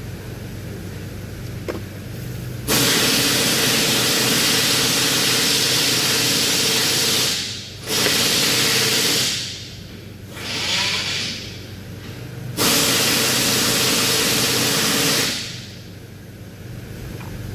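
Four long bursts of loud hissing from a jet of pressurised gas, the longest about five seconds and the third one weaker, over a steady low hum.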